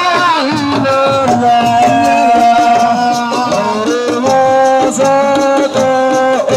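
Assiko band music: a male voice sings long, bending held notes over steady, regular drum strokes.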